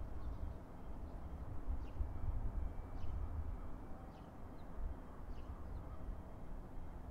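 Low steady rumble of a JR Kyushu Series 815 electric train coming in slowly, with faint short bird chirps about once a second.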